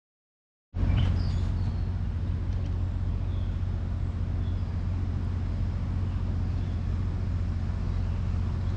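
Silence, then less than a second in a steady low rumble cuts in abruptly and runs on evenly, with a few faint high chirps soon after it starts.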